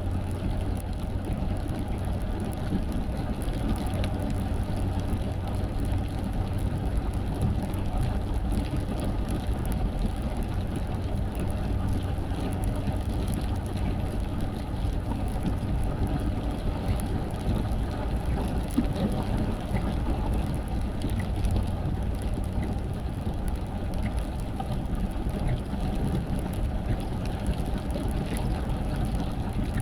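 Car driving on a rain-wet road: steady engine and tyre noise with a low hum, and a few faint ticks.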